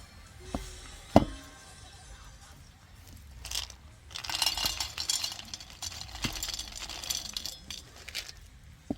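Camp dishes and utensils clinking and being set down, in several separate knocks with the sharpest about a second in. In the middle there are a few seconds of rustling noise full of small clicks.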